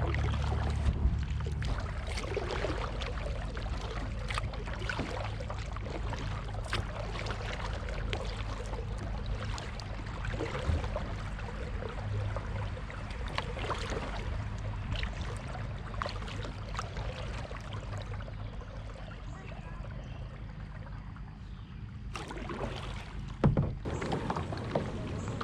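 Kayak paddling down a shallow river: water splashing and rushing past the hull, with scattered knocks of the paddle. A single sharp knock near the end.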